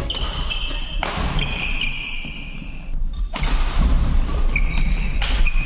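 Court shoes squeaking on a hall floor during a badminton rally, in short and drawn-out squeals, with three sharp hits.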